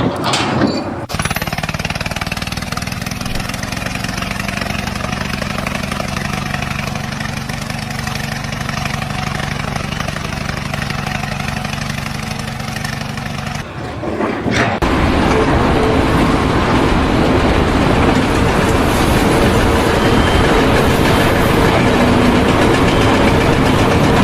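Steady machine noise in two parts: an engine running with an even low hum, then, after a sudden change about 14 seconds in, a louder, rougher machine noise.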